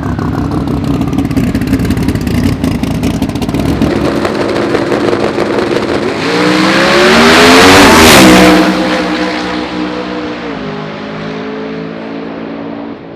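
Drag racing car's engine running at high revs, then accelerating hard: its pitch climbs from about six seconds in and it is loudest around eight seconds. The pitch then drops and the sound fades, stepping down once more near the end as the car moves off down the strip.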